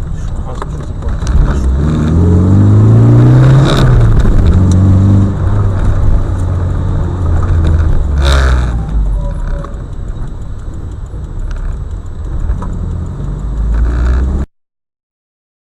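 Motor vehicle engine revving up, its pitch climbing over the first few seconds and then falling back. There is a sharp knock about four seconds in and another about eight seconds in, and the sound cuts off abruptly near the end.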